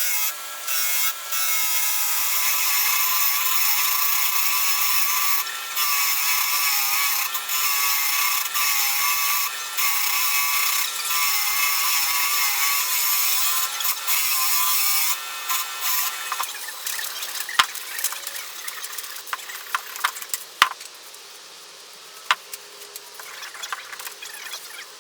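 Wire wheel on a grinder scrubbing rust and old paint off cast-iron post drill parts: a steady, loud abrasive hiss with a wavering motor whine, briefly interrupted a few times. About two-thirds of the way in the grinding stops, leaving a few sharp clicks and knocks.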